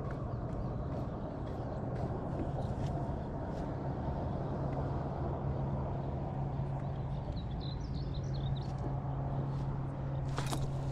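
Outdoor lake ambience: a steady low hum under a noise haze, with a bird chirping briefly about eight seconds in and a sharp knock just before the end.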